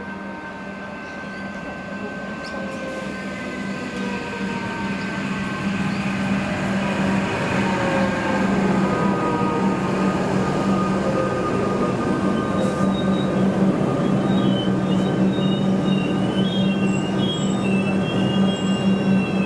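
Electric rail vehicle coming in and slowing, growing louder over the first several seconds, with a steady motor hum and a whine that falls in pitch. Wheels squeal with a wavering high tone in the last few seconds.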